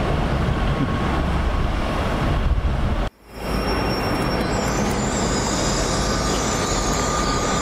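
A Class 150 Sprinter diesel unit pulling away with a steady low rumble. A few seconds in, the sound cuts off abruptly and gives way to a Great Western Railway Intercity Express Train approaching, its steady running noise carrying a thin high whine.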